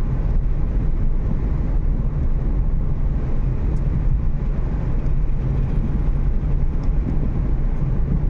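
Steady road and engine noise heard from inside a moving Renault Kiger's cabin, a low, even noise of tyres on the road with no change in speed.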